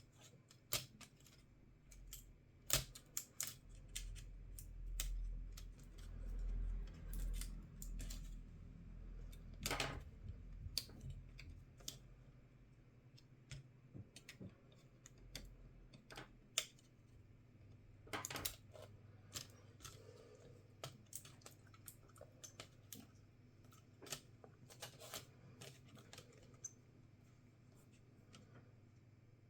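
Small tools and laptop parts being handled on a work surface during disassembly: scattered sharp clicks and taps, with a low rumble of handling from about four to nine seconds in.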